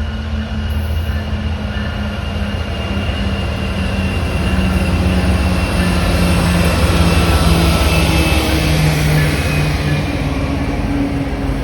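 A train passing by, a steady low rumble with running noise that builds to its loudest about two-thirds of the way through, then eases slightly.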